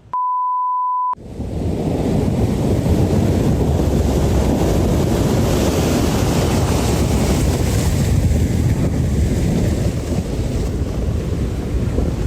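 A steady beep for about a second. Then strong wind buffets the microphone over a stormy sea with crashing waves, loud and unbroken.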